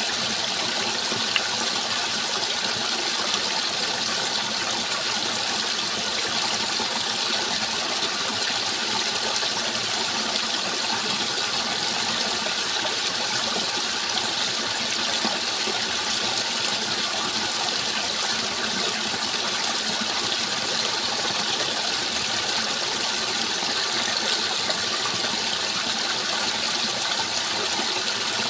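Running water, a steady even rush with no breaks or changes in level, as from a stream or waterfall.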